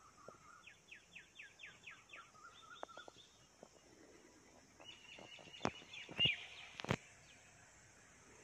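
Birds calling: a quick series of about eight falling whistled notes, then scattered chirps. A few sharp clicks and chirps come about two-thirds of the way through.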